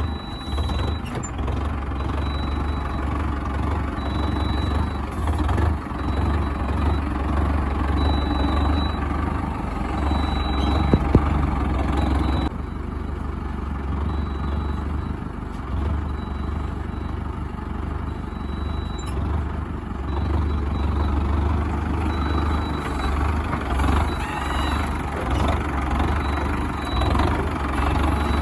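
Diesel tractor engine running at a steady speed, with a strong low hum throughout; the sound changes abruptly about twelve seconds in.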